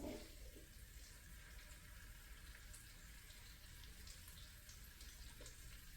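Near silence: a faint steady hiss with scattered small ticks, from butter melting in a hot pan.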